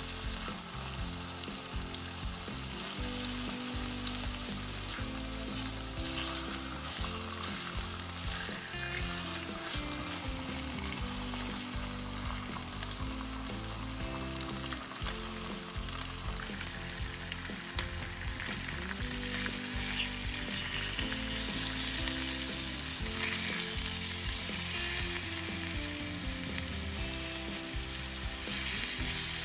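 Marinated chicken pieces sizzling as they fry in oil in a nonstick pan, with a spatula now and then scraping and turning them. The sizzle gets louder about two-thirds of the way in.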